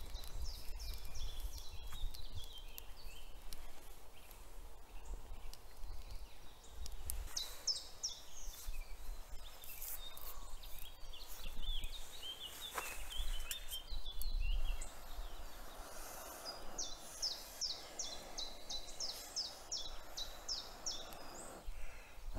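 Songbird singing: runs of quick, high, falling chirps that come and go, over a low rumble and scattered clicks.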